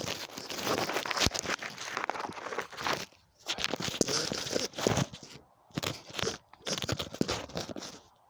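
Rocks and debris being moved and cleared by hand at a spring: repeated crunching and scraping with sharp clicks, in bursts broken by short pauses.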